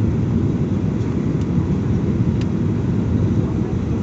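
Airliner cabin noise in flight: a steady low rumble of the jet engines and airflow.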